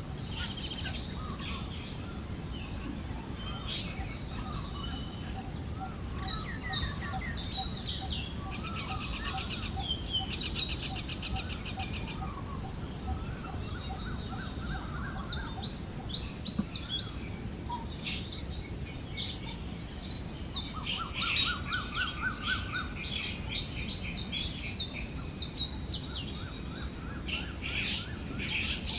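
A mixed chorus of forest birds chirping, with short calls and quick rattling trills, over a steady high insect drone and a soft low breeze.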